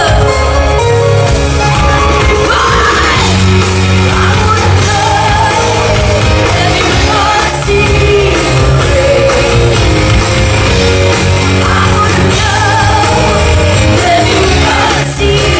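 Rock song played by a full band with a woman singing over steady bass and drums.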